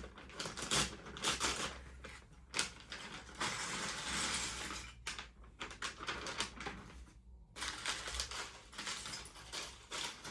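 LEGO bricks and their plastic packaging being handled: irregular small plastic clicks and clatters, with a longer rustle of a bag from about three and a half to five seconds in.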